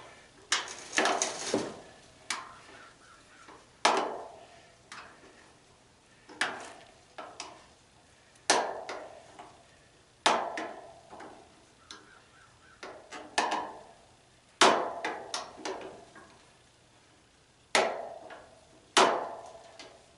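Repeated hammer blows on metal, about fifteen sharp strikes at uneven spacing, each ringing briefly, as a part of an old tanning bed is knocked loose.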